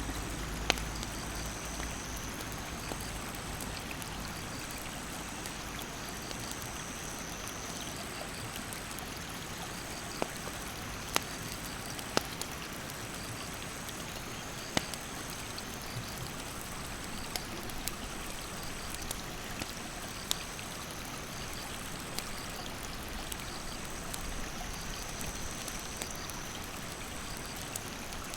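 Stream water rushing steadily, with occasional sharp pops from a wood campfire. A high-pitched insect call pulses on and off throughout.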